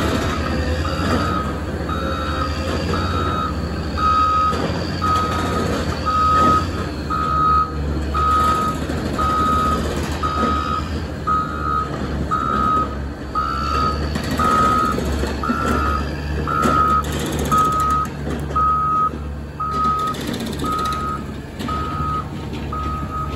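Caterpillar 120M motor grader's backup alarm beeping about once a second while the machine reverses, over the steady low rumble of its diesel engine.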